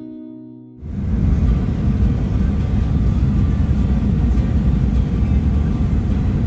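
Acoustic guitar music ending in the first second, then a steady low rumble of a vehicle on the move, heavy road and wind noise.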